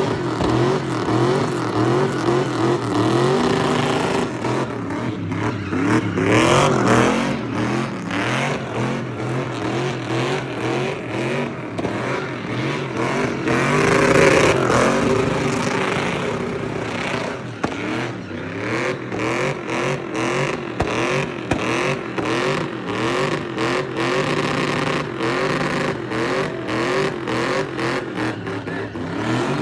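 Car engine revving over and over in quick rising sweeps, about two a second, typical of a car spinning donuts. There are bigger, louder rev climbs about six seconds in and again around fourteen seconds.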